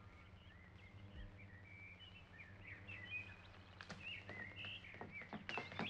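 Faint birdsong: quick high chirps and twittering over a steady low hum, with a few sharp clicks from about four seconds in.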